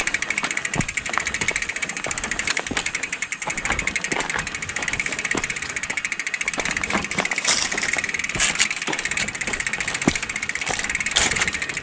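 Origin 8 mountain bike rear hub freewheeling, its freehub pawls giving a rapid, even clicking buzz as the wheel coasts.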